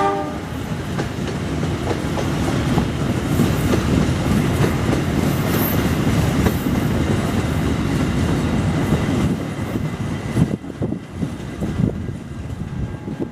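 Train passing close by: steady rumble of steel wheels on the rails with clickety-clack over the rail joints. The rumble thins about ten seconds in, leaving separate clacks as the last cars go by.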